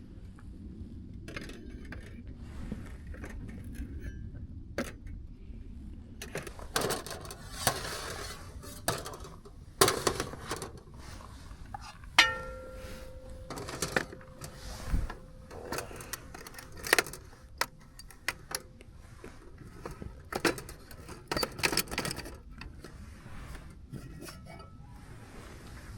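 Metal camp cookware being handled: scattered clinks and knocks, with one ringing clang about halfway through that fades over a few seconds.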